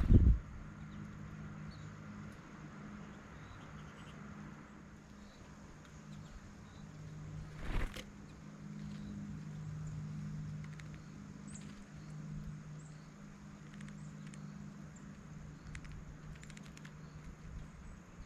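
Small birds at a feeder: faint, short high chirps and scattered light clicks over a steady low hum. A loud thump comes at the start and another about eight seconds in.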